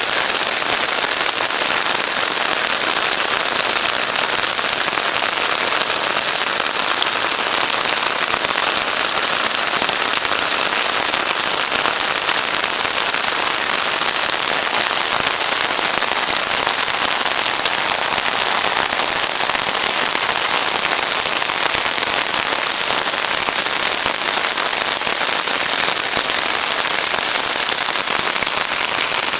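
Heavy monsoon rain falling steadily onto a wet ledge and a flooded street, an even, unbroken hiss.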